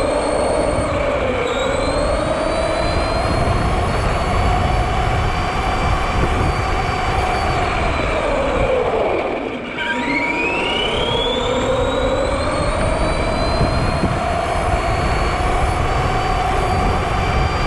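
Electric motor of an RC monster truck whining as it speeds up and holds speed. It winds down sharply about nine and a half seconds in, then speeds up again, over a steady low rumble.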